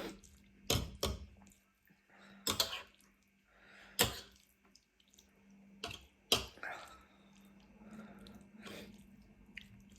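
Close-up wet eating sounds of noodles and rice cakes being eaten: about half a dozen sharp slurps and mouth smacks at irregular intervals, with quieter chewing between.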